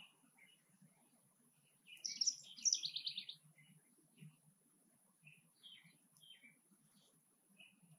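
Backyard birds chirping: short chirps repeat every half second or so, with a louder burst of quick, high chirps about two seconds in that lasts around a second and a half.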